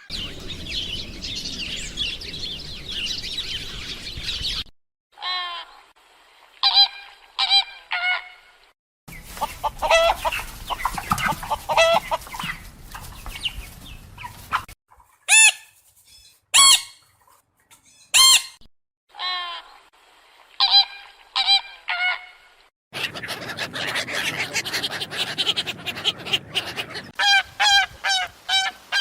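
Birds calling in a run of short separate takes: short honking and clucking calls, some single and some in quick series of several calls.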